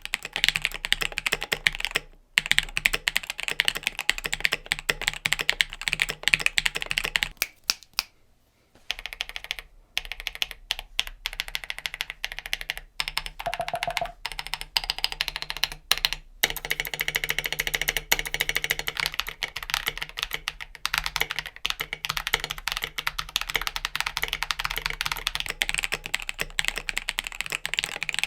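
Mechanical keyboard fitted with NK Silk Olivia factory-lubed linear switches being typed on in fast, continuous runs of keystrokes. There are brief pauses about two seconds in and again around eight to nine seconds in.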